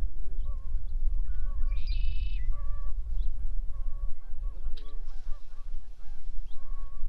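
Farm fowl calling, with repeated short honking calls like geese and one louder, higher call about two seconds in, over a steady low rumble.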